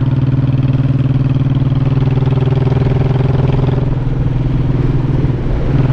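Honda Shadow 1100's V-twin engine running steadily at an even pitch, heard from the rider's seat, with a brief dip in level near the end.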